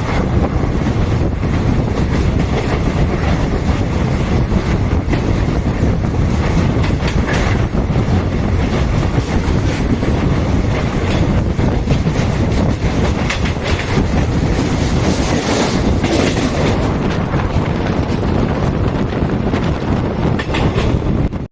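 Passenger train running along the track, a steady rumble with the wheels clicking rapidly over rail joints.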